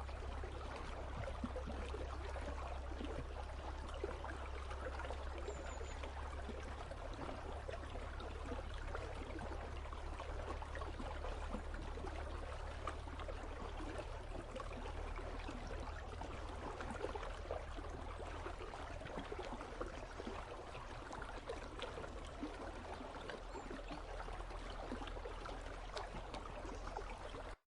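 Icy river flowing: a steady, unbroken rush of running water that cuts off suddenly near the end.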